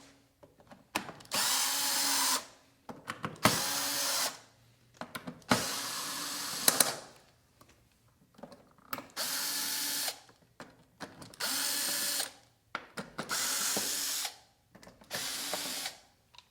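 Power drill run in about seven short bursts, each a second or so long with brief pauses and a few clicks between, backing the screws out of an adjustable threshold rail.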